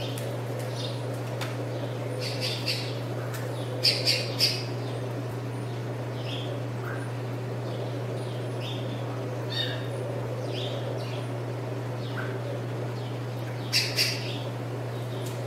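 Birds calling: short high chirps scattered throughout, with louder clusters of sharp calls about four seconds in (three quick calls) and again near the end (two calls), over a steady low hum.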